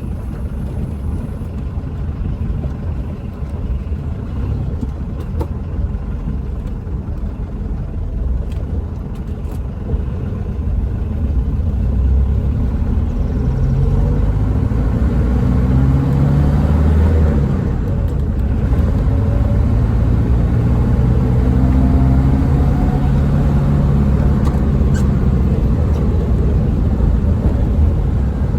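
Hindustan Ambassador's BMC Stride engine pulling the car along with the air conditioning switched on. The engine note climbs in steps from about a third of the way in, drops briefly near the middle as a gear is changed, then climbs again.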